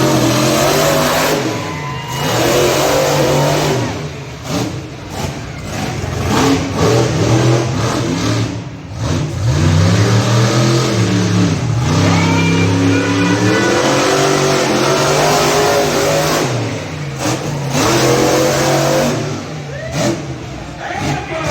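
Monster truck engine revving hard again and again, its pitch climbing and falling back many times, with brief drops in level between pushes.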